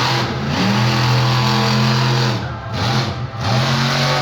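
Monster truck engine revving hard: the pitch climbs and holds high for about two seconds, falls away, then climbs and holds again near the end.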